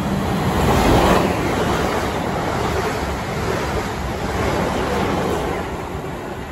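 Electric multiple-unit passenger trains running through stations, a steady rush of wheels on rail and air that swells loudest about a second in and again later, with wind buffeting the microphone.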